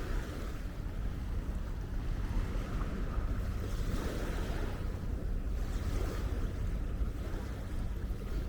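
Wind buffeting the microphone with a steady low rumble, over small Baltic Sea waves washing onto a sandy beach in swells that rise and fall every second or two.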